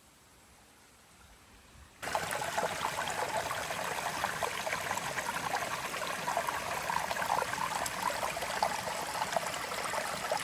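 Water trickling and splashing steadily. It starts abruptly about two seconds in, after near quiet.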